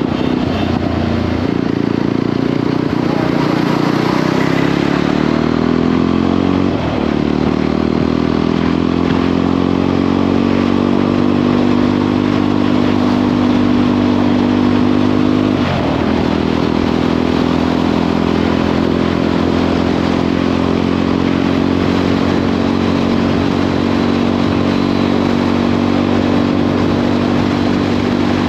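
Jawa 42 motorcycle's single-cylinder engine pulling hard on the highway. Its pitch climbs steadily and drops sharply twice, about a quarter of the way in and just past halfway, as it is shifted up through the gears.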